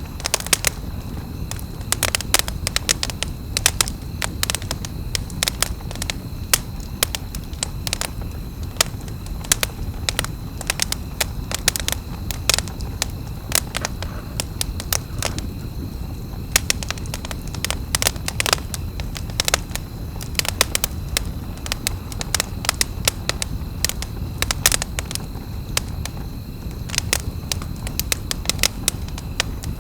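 Wood campfire crackling: frequent irregular sharp pops and snaps over a steady low rush of burning, with a faint steady high tone underneath.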